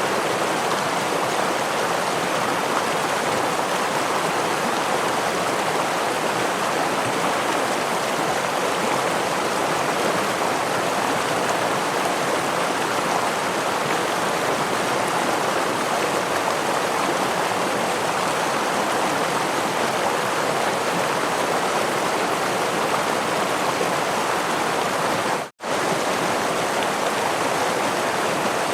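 A stream of rushing water running steadily, an even rushing hiss without changes; it cuts out for a split second near the end.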